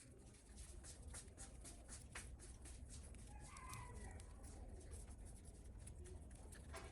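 Near silence with scattered faint light ticks and clicks, and a faint rooster crow in the distance about three seconds in.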